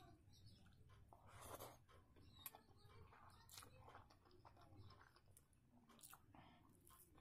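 Faint, close-miked mouth sounds of someone chewing a mouthful of hand-mixed rice: irregular soft smacks and wet clicks.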